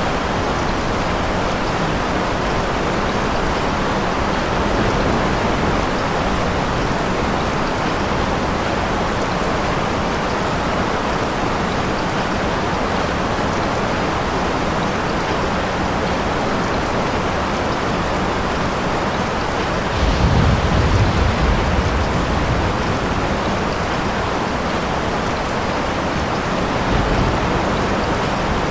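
Steady, heavy rain falling, with a low rumble of thunder about two-thirds of the way through and a fainter one near the end.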